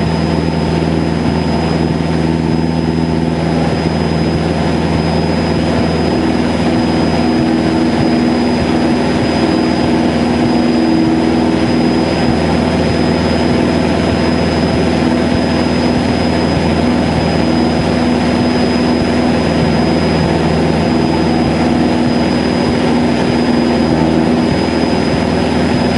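Cessna 152's four-cylinder Lycoming O-235 piston engine and propeller running steadily, heard from inside the cabin, with a thin steady high-pitched whine over it.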